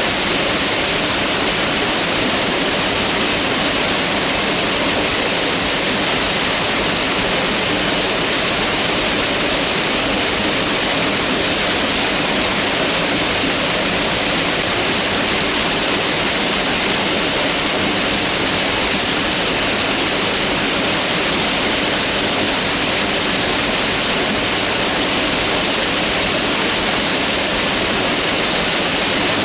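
Mountain river rushing over rocks, a steady, unbroken water noise.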